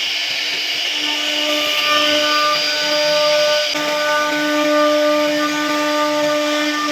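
CNC router spindle running at a steady high speed while carving wood, a constant whine with a hiss of cutting over it.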